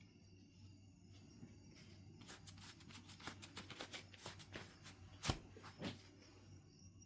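Knife River Flint being worked with hand knapping tools: a quick run of small clicks and scrapes starting about two seconds in, with one sharp, louder click a little past five seconds.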